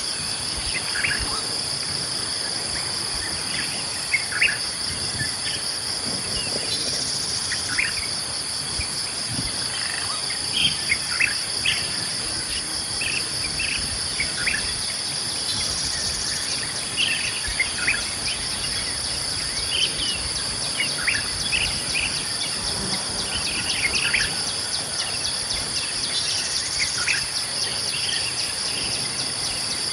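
A steady, high-pitched insect chorus drones without a break, with short bird chirps and calls scattered throughout.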